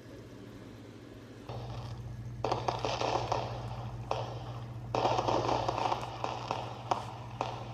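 A firework going off with a crackling hiss and many small pops. It starts about a second and a half in and swells twice before dying down.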